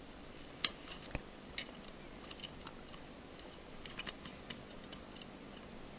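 Light, irregular clicks and taps of small tools and a metal earthing bracket being fitted inside an opened iPhone 5, the sharpest click just over half a second in.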